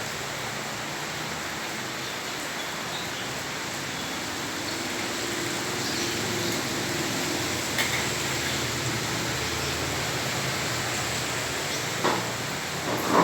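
Heavy rain falling steadily on a flooded street, an even hiss of water. A louder rush of water starts near the end.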